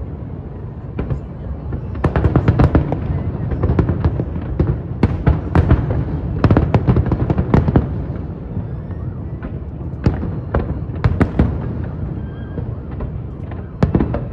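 Aerial fireworks bursting in rapid volleys of sharp bangs, coming in dense clusters with short lulls between, over a continuous low rumble.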